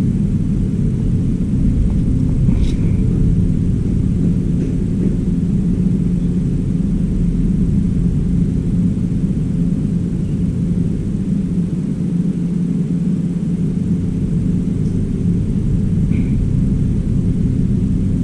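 Steady low mechanical rumble with a faint steady hum, and a couple of faint clicks.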